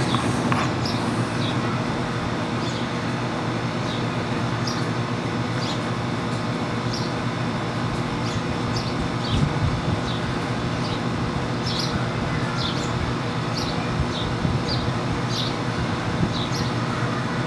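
A bird chirps short, high notes about once or twice a second over a steady low background hum.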